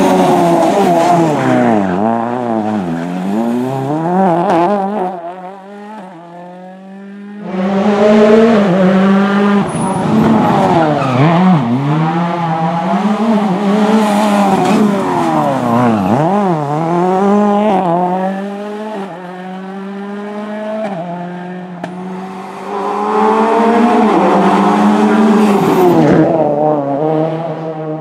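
Ford Fiesta RS WRC rally car's turbocharged four-cylinder engine revving hard, its pitch climbing and dropping again and again through gear changes. It goes quieter for a moment about six seconds in, then comes back loud.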